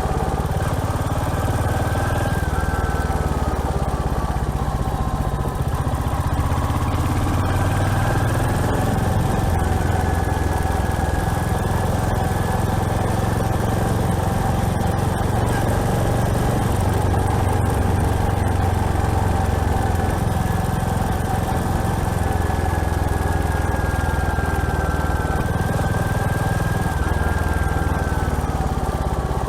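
Royal Enfield Hunter 350's single-cylinder engine running while riding. Its pitch falls a few seconds in, rises again and holds steady, then drops near the end.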